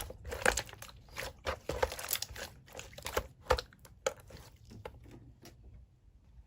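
Slime being squished and pressed, making irregular sticky pops and crackles that die away about five and a half seconds in.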